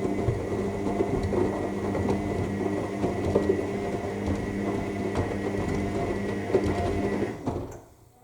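AEG 7000 Series front-loading washing machine tumbling its drum in the main wash: a steady motor whine with soft knocks of laundry falling inside the drum. About seven and a half seconds in the motor stops and the sound drops away as the drum pauses between turns.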